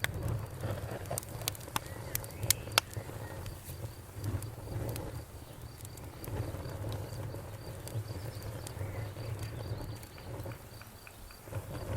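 Bonfire crackling with sharp pops, loudest and most frequent in the first three seconds, over a low steady rumble. Crickets chirp throughout in a fast, even pulse.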